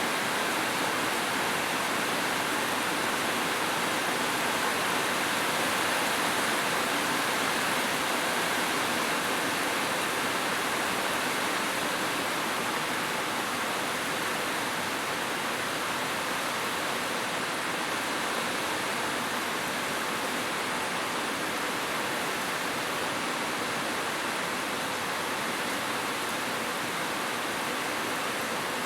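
Heavy rain falling: a steady, even hiss with no distinct drops or thunder.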